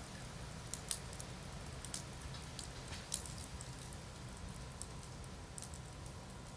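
Wood campfire crackling: scattered sharp pops and snaps, the loudest about one and three seconds in, over a low steady rumble.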